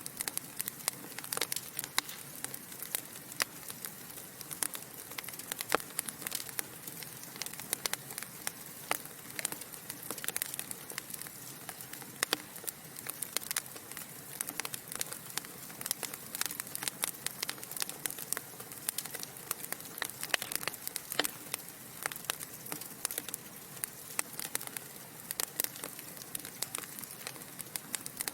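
Wood fire crackling: a steady stream of sharp, irregular pops and snaps from burning logs over a soft hiss of flame.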